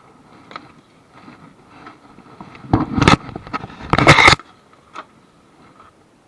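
Two loud, short rattling bursts about a second apart, each lasting about half a second, with faint clicks around them.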